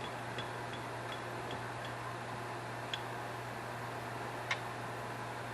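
Light metallic ticks and clicks from hand work on a carburetor's throttle shaft and base plate: a run of soft ticks, about two or three a second, for the first two seconds, then two sharper clicks, over a steady low hum.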